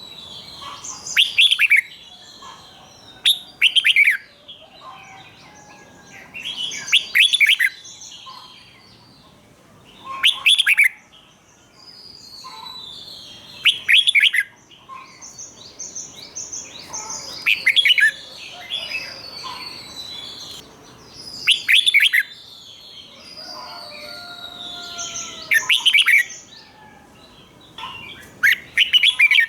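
Red-whiskered bulbul singing, repeating a loud, bright song phrase about every three to four seconds, some phrases given twice in quick succession, with quieter chirps and whistles in between.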